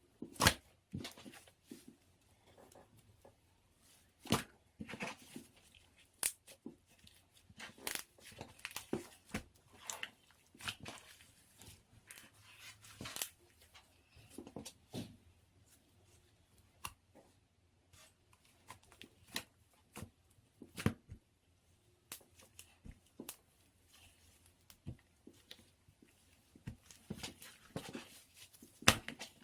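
Pink slime being kneaded and stretched by hand as cloud slime is mixed in, giving irregular sticky pops, clicks and tearing crackles.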